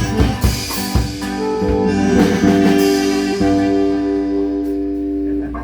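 Live norteño band music with drums, closing on a long held chord from about three and a half seconds in.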